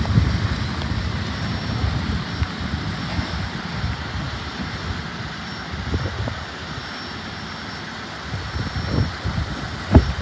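Double-stack intermodal freight train's well cars rolling past on steel rails, a low wheel rumble that fades as the end of the train pulls away. A few low thumps come near the end.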